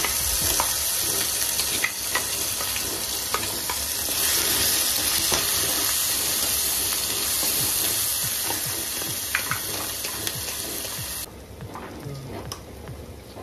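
Spice paste sizzling hard in hot oil in a metal kadai as it is poured in and stirred, with short clicks and scrapes of a steel spatula against the pan. The sizzle drops off suddenly about eleven seconds in, leaving quieter frying and spatula clicks.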